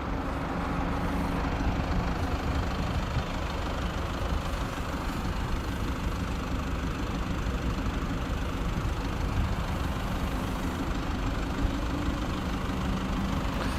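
2015 Toyota Land Cruiser Prado's inline-four engine idling steadily, a low even hum with no changes in speed.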